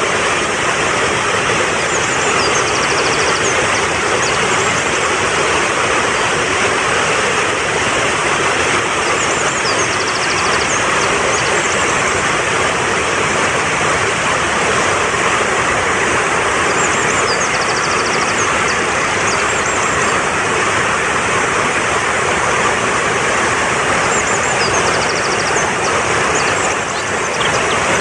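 Fast-flowing mountain stream rushing steadily and loudly, with songbird calls over it: a short phrase of high chirps and a fast trill that comes back about every seven to eight seconds, four times.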